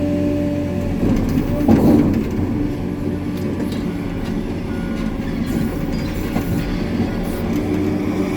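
Heavy earthmoving machine's diesel engine running steadily, with a louder burst of rumbling and rattling noise about a second or two in.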